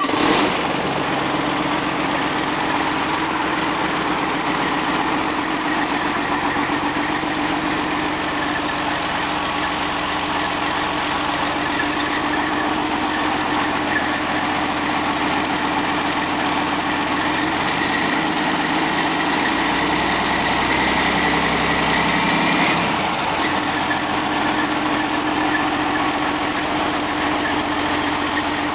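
Detroit Diesel Series 60 14.0-litre inline-six turbo-diesel engine (DDEC V, 475 hp) running steadily at idle. About two-thirds of the way through it runs a little faster for a few seconds, then drops back to idle.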